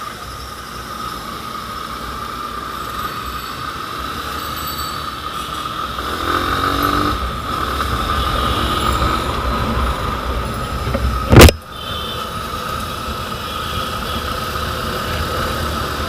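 Motorcycle riding on the road, heard through a helmet-mounted action camera: a steady engine and road rumble under a constant high whine. A brief pitched tone comes about six seconds in, and a single sharp, loud knock about eleven seconds in.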